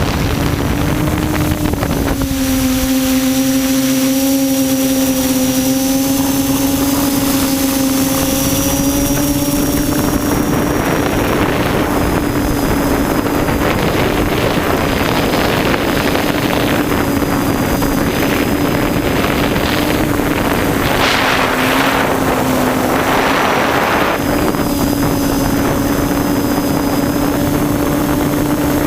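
QAV400 quadcopter's electric motors and propellers humming steadily in flight, the pitch wavering slightly. Rushes of wind noise come and go twice about two-thirds of the way in.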